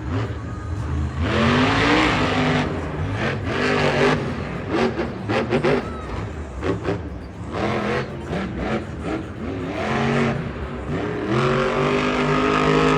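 Monster truck engine revving hard several times, its pitch climbing and falling with each burst, with a run of sharp bangs around the middle.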